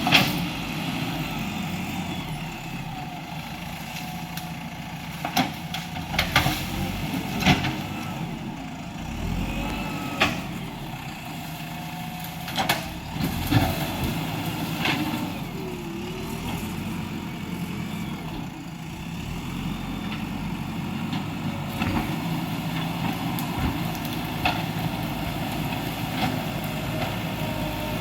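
JCB 3DX backhoe loader's diesel engine running steadily, with a string of sharp knocks and clanks scattered through it, most of them between about five and fourteen seconds in.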